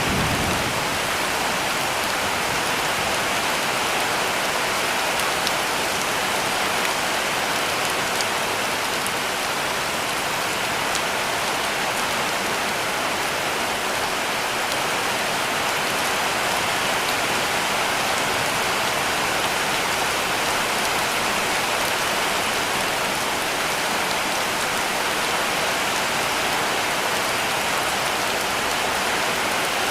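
Heavy rain falling steadily on a cabin roof: a dense, even hiss with faint scattered drop ticks.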